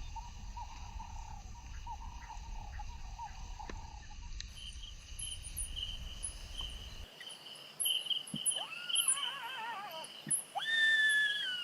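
Crickets and other insects chirring steadily. About eight seconds in, an animal starts a wavering, wailing howl that slides up and down in pitch, growing louder near the end.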